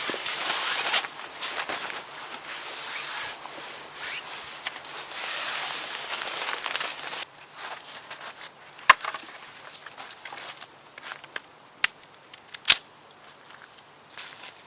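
Dry wood and brush being handled: several seconds of uneven rustling and scraping, then a few sharp cracks or knocks in the second half.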